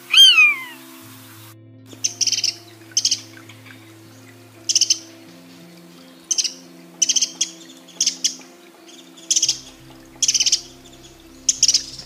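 Common buzzard's single loud mewing call gliding downward at the start. After it comes a small songbird calling in about a dozen short bursts of high chirps, spaced roughly a second apart, over soft background music.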